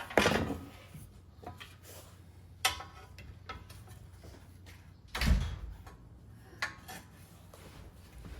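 A few sharp knocks and clicks of metal parts and tools being handled, with one heavy low thump about five seconds in.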